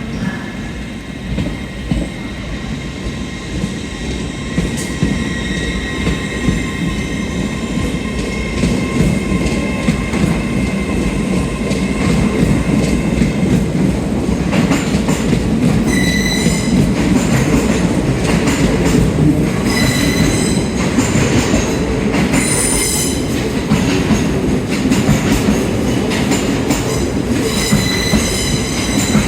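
Train moving on the rails, a steady low rumble of wheels and running gear that grows louder about twelve seconds in, with high-pitched wheel squeal coming and going several times in the second half.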